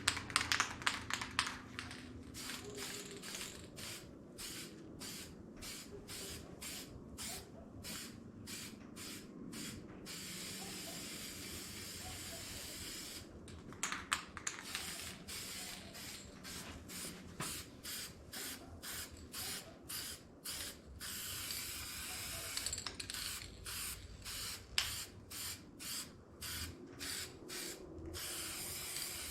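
Paint being sprayed on for a final coat, hissing in short passes about two a second, with one longer unbroken spray of about three seconds partway through.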